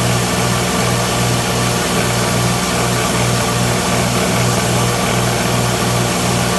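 Electric belt grinder running steadily, a low motor hum under a constant hiss.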